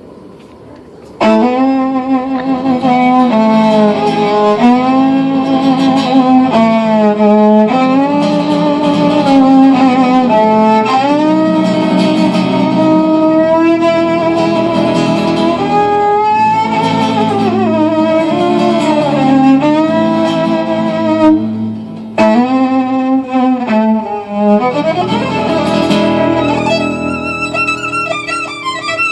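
Violin with guitar accompaniment starting about a second in: a fast, gypsy-style tune full of sliding notes and quick runs, with a brief break and a rising slide near the end.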